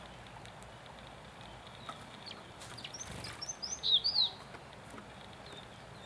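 Small birds chirping: scattered faint high chirps, then a quick run of several louder, sharp chirps about four seconds in.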